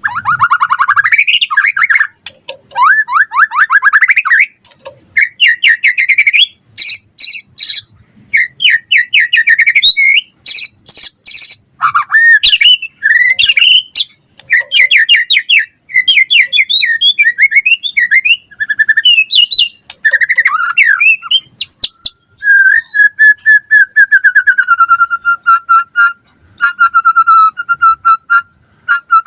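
White-rumped shama singing a long, fast, varied song of loud whistles, slurred glides and rapid trills, with many mimicked phrases. Near the end it repeats one lower whistled note over and over.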